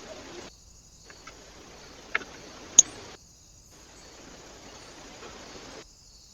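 Trail-camera recording at a bird feeder: a steady hiss with two sharp clicks a little over two seconds in and just under three seconds in, the second one louder. The sound drops out completely twice where separate clips are joined.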